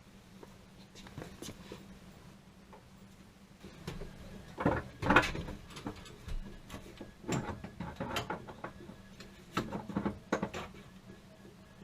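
Irregular knocks, clicks and clatter of hand work on metal and plastic parts, in bursts from about four seconds in, over a faint steady hum.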